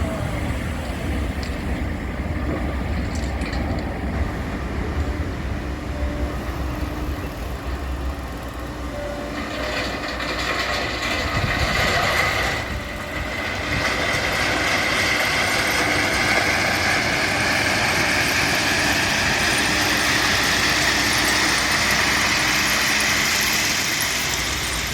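Low diesel engine rumble, then from about ten seconds in a train passing on a nearby line: a steady rolling noise with a high whine that slowly falls in pitch.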